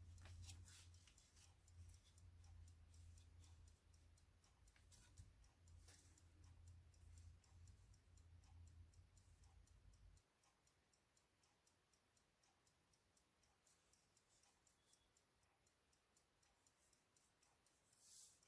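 Near silence: faint room tone with a low hum that stops about ten seconds in, and faint, evenly spaced ticking.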